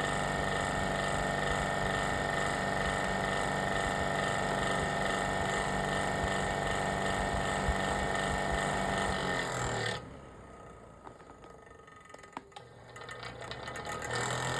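Old generic round electric fan heater running loudly with a steady motor hum, which the owner believes is broken because it sounds bad. About ten seconds in the sound cuts off sharply, leaving a few clicks, and a running sound builds up again near the end.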